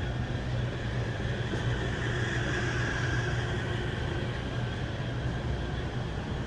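Street ambience with a steady low engine hum from a motor vehicle. A vehicle passing swells and fades around the middle.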